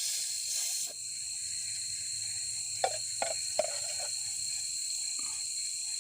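Steady high hiss of night insects chirring with a constant high whine, and three light clicks a little before the middle.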